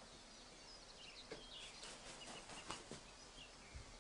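Faint outdoor ambience of small birds chirping, with a few soft clicks around the middle.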